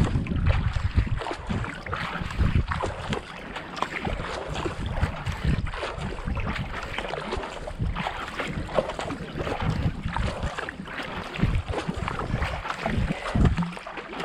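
Kayak paddle strokes splashing into the water in a steady racing rhythm, over wind buffeting the microphone.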